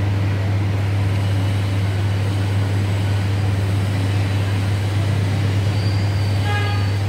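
Steady low machine hum with an even rushing noise over it, like a motor or fan running. A short high-pitched call sounds once near the end.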